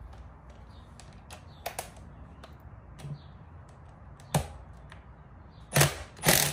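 A few light clicks and knocks of a socket and tool being fitted, then, near the end, short loud bursts of an impact wrench hammering at the 14mm flywheel nut of a Kawasaki KX60 engine to break it loose.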